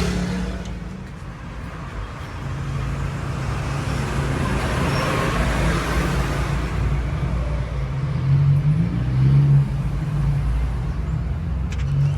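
Road traffic: motor vehicle engines running steadily, with a vehicle passing and its noise swelling and fading a few seconds in.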